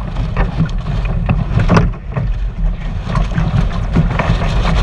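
Strong wind buffeting the microphone in a heavy, steady rumble, with water splashing and slapping against a 420 sailing dinghy's hull in irregular splashes.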